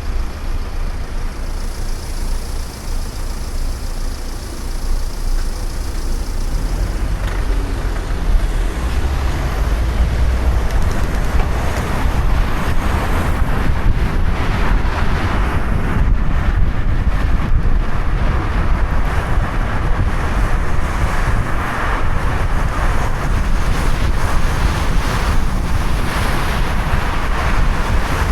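Wind buffeting the microphone of a camera on a moving bicycle, a steady low rumble with a broad hiss that grows louder about a quarter of the way in.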